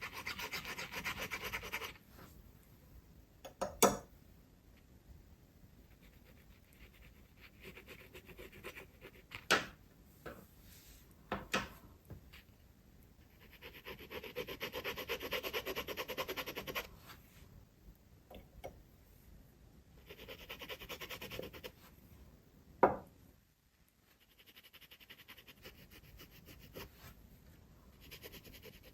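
Glass pen scratching over sketchbook paper in stretches of many quick small strokes, broken by four sharp taps that are the loudest sounds.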